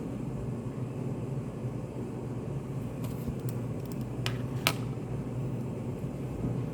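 Steady low hum of a study room's ventilation or air conditioning. A handful of small sharp clicks and taps fall in the middle, the loudest about two-thirds of the way through.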